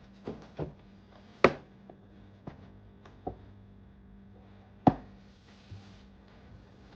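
Light knocks and clicks of objects being handled, with two sharper, louder knocks, one about a second and a half in and one near five seconds, over a faint steady hum.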